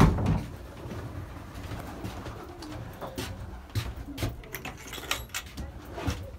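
A loft of young racing pigeons cooing, with scattered sharp clicks and knocks from the birds moving about, the loudest knock right at the start.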